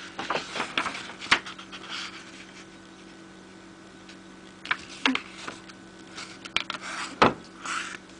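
Sheet of A4 paper being handled and folded for origami: rustling swishes and sharp crackles, in two bursts with a quieter stretch in the middle, over a faint steady hum.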